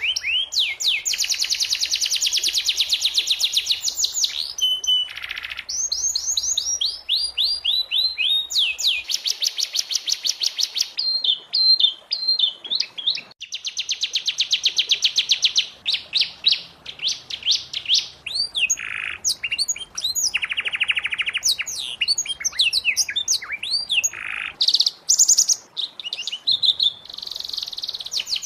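Domestic canary singing: long runs of fast, rapidly repeated trilled notes, switching to a new trill every second or two, with quick chirps and whistled notes in between.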